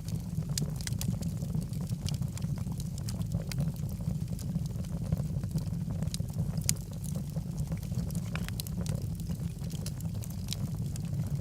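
Log fire burning in a fireplace: a steady low rumble of flames with frequent small, sharp crackles and pops from the burning wood, one louder pop near the middle.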